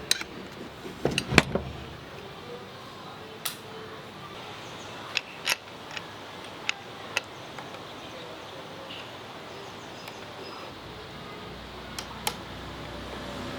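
Scattered sharp clicks and clinks of metal tools and parts being handled, about a dozen, the loudest cluster about a second and a half in, over faint steady room noise.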